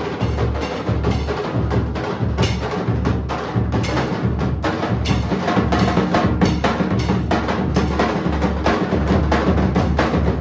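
Nasik dhol drumming: a group of dhol drums beaten in a fast, continuous rhythm of sharp stick strokes over deep bass beats.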